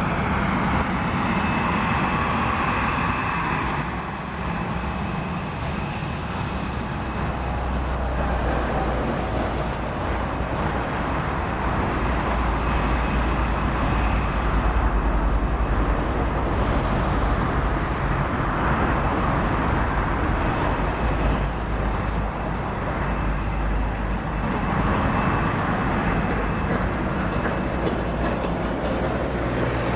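Boeing 737 jet engines running: a steady low rumble under a rushing noise, with a faint high whine.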